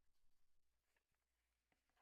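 Near silence, with faint rustling of packaging during the first half second and a few soft clicks later on.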